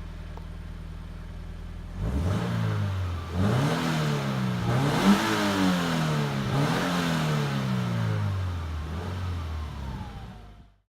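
Subaru BRZ's flat-four boxer engine on its stock exhaust, idling and then free-revved about two seconds in. It climbs and drops three times in quick succession, then falls back toward idle before the sound cuts off near the end.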